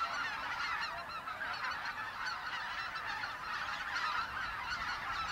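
A large flock of greater white-fronted geese calling, a dense continuous chorus of many overlapping honks.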